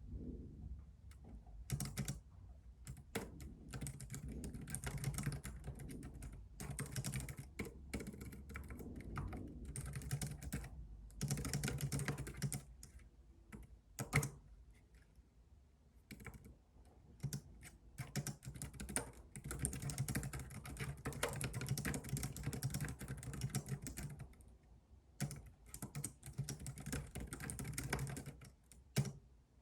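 Typing on a computer keyboard: runs of quick key clicks lasting a few seconds at a time, broken by short pauses, over a faint low rumble of background noise.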